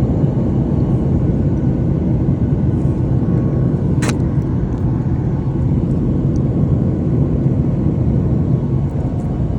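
Car driving, a steady low rumble of road and engine noise, with a single short click about four seconds in.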